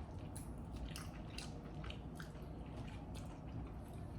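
People chewing and eating food, with irregular wet smacking and clicking mouth sounds a few times a second.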